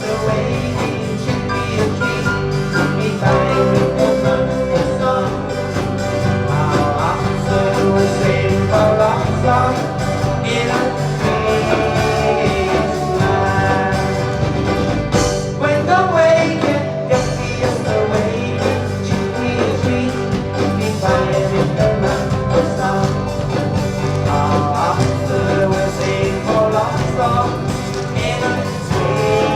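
Live band with a lead singer performing an oldies pop song.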